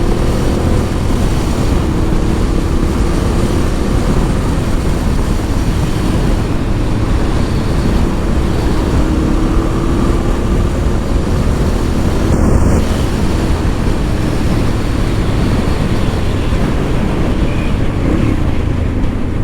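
Honda Transalp motorcycle riding along, its engine running under steady wind noise on the rider's camera microphone; the engine's pitch drifts slightly with speed.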